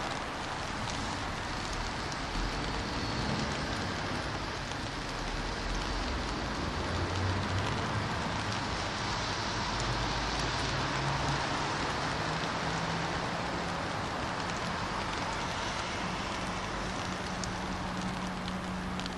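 Steady rain falling on a wet city street, with cars driving by on the wet road; a low engine drone comes in about a third of the way through and climbs slowly in pitch to the end.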